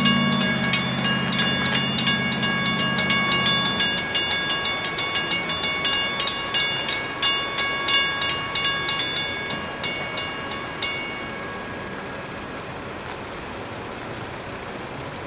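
NJ Transit push-pull commuter train (PL42AC diesel locomotive and Comet cab car) moving away down the track. A low engine drone fades out about four seconds in. Quick, uneven clicking with a steady high ringing continues, then fades away about eleven seconds in.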